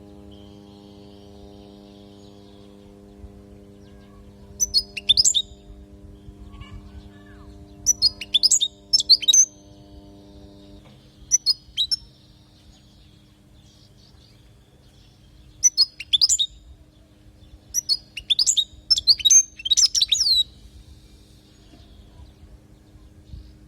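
European goldfinch singing in short bursts of rapid, high twittering phrases with pauses between them. A steady low hum runs underneath and drops away about eleven seconds in.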